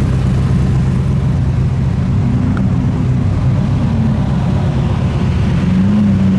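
Car engine running at low revs close by, its pitch lifting slightly near the end.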